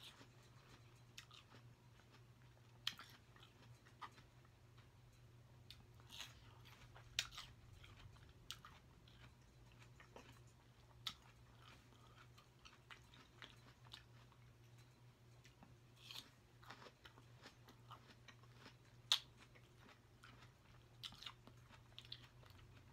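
A person chewing fruit close to the microphone: quiet wet mouth clicks and smacks, with a few louder bites.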